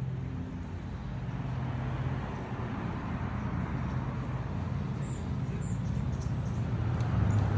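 Steady low motor hum over outdoor background noise, growing slightly louder toward the end.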